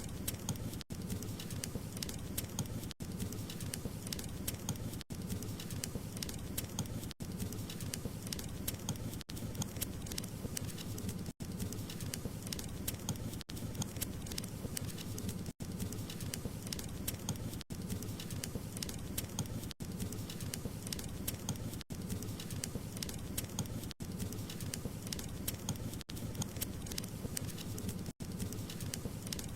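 Wood fire crackling steadily, with dense, irregular small pops over a low rushing hiss. There are very brief dropouts about every two seconds.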